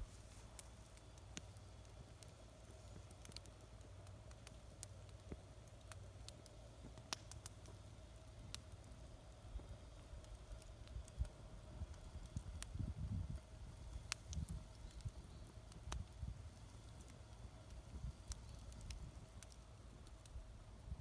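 Wood fire crackling faintly in a small homemade fire pit: scattered sharp pops and snaps over a low, uneven rumble.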